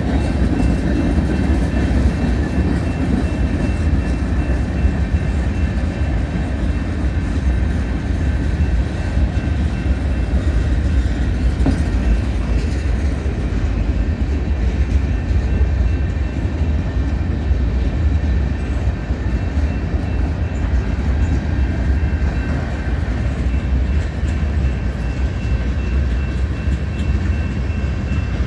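Freight train cars rolling steadily past: a continuous loud rumble of wheels on rail with faint steady ringing tones above it.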